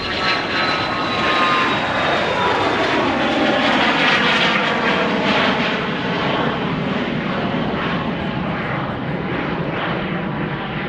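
Airplane engines passing close by: a loud rush with a high whine that falls in pitch as the aircraft goes past, peaking in the first few seconds and then slowly fading.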